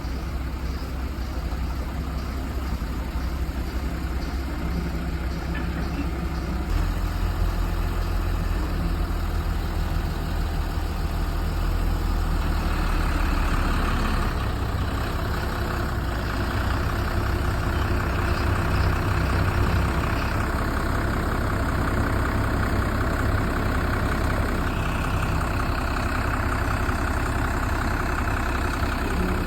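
Excavator's heavy diesel engine running steadily under work, its low hum getting louder about seven seconds in and changing note again around fourteen seconds as the machine works.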